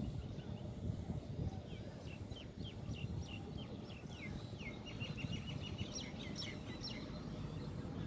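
A bird calling a series of short, falling chirps, starting about two seconds in, quickening about five seconds in and stopping near the end, over a steady low outdoor rumble.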